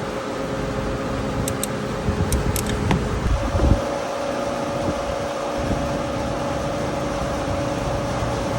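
Steady fan-like machine hum, with a few light clicks and low knocks in the first few seconds; a steady tone joins in a little over three seconds in.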